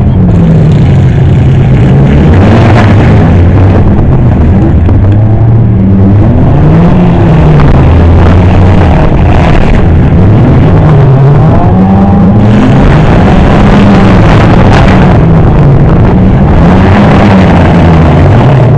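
Loud engines of several banger-racing cars revving hard, their pitch repeatedly rising and falling as they accelerate and back off.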